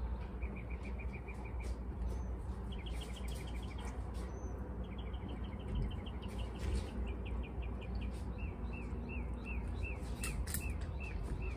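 A bird singing repeated series of chirps: quick trills of about ten notes a second, then slower downslurred notes near the end, over a steady low rumble, with a few faint clicks.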